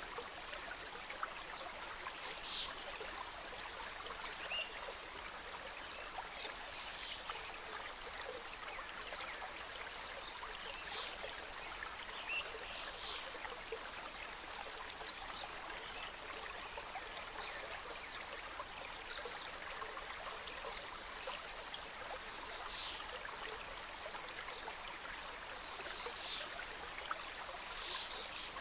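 Small mountain stream flowing and cascading over rocks: a steady rush of water with little splashes scattered through it.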